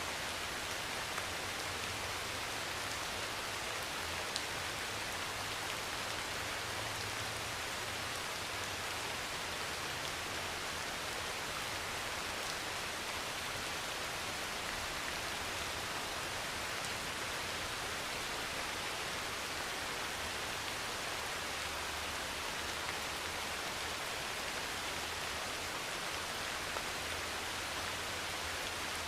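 Heavy rain falling steadily on a metal roof, a dense even hiss with an occasional sharper drop tick.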